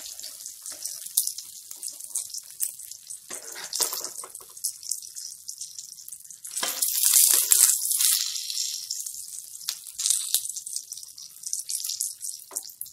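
Stuffed brinjals shallow-frying in oil in a pan, sizzling, while a metal spatula scrapes and knocks on the pan as they are turned over. The sizzle flares up several times, loudest about seven seconds in.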